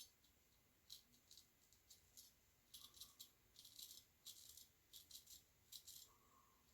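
Straight razor scraping stubble off lathered skin in a quick series of short, faint, crisp strokes.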